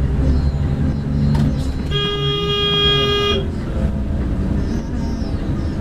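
Vehicle horn sounding one steady blast of about a second and a half, about two seconds in, over a constant low engine and road rumble.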